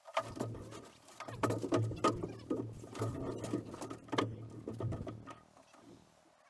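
Rapid scraping, rustling and clattering of hand demolition work, interior lining being pulled out, with many sharp knocks. It dies away about five seconds in.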